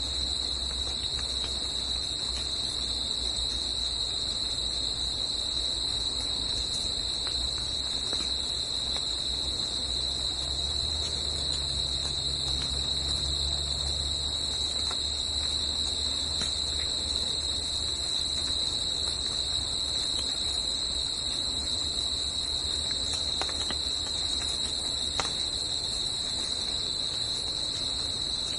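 A forest insect chorus: a steady, unbroken high-pitched drone, with a low rumble underneath that swells for a few seconds partway through.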